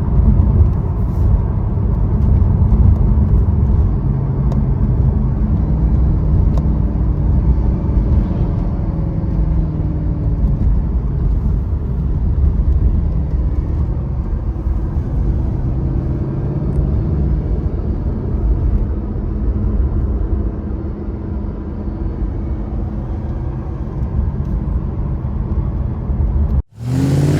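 Mercedes-Benz SLS AMG Roadster's naturally aspirated 6.3-litre V8 running steadily on the move, its note drifting slowly up and down. The sound cuts off abruptly near the end.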